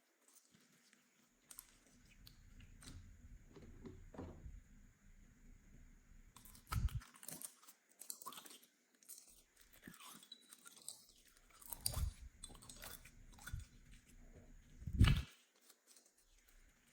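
Slime being mixed and squeezed by hand: irregular sticky squishing, crackling and popping. Three louder pops land about 7, 12 and 15 seconds in, the last the loudest.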